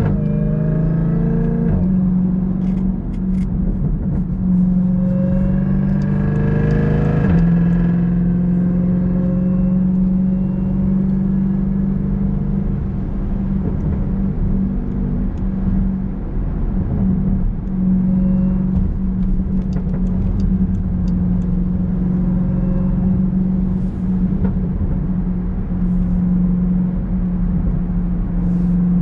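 2018 Jeep Grand Cherokee Trackhawk's supercharged 6.2-litre V8 pulling hard, its pitch rising and then dropping sharply at an upshift about seven seconds in. It then settles into a steady drone.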